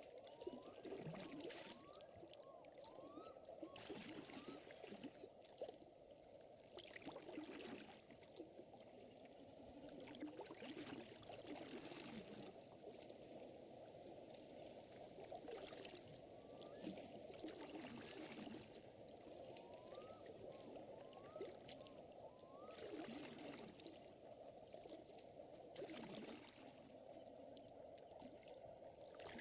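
Faint lake water trickling and lapping, with soft hissing swells every few seconds.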